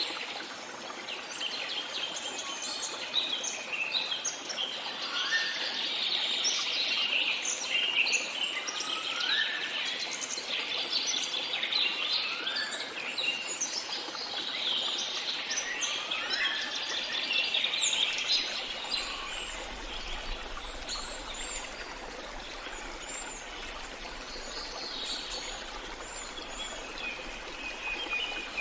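A chorus of many songbirds chirping and trilling over a steady background hiss. One bird repeats a rising whistle every three to four seconds in the first half, and the singing thins out in the second half.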